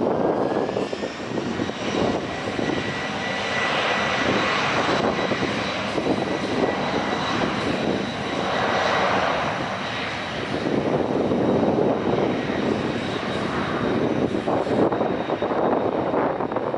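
Boeing 747-400 jet engines running loud and steady as the airliner passes close by, a dense roar with a thin high whine over it.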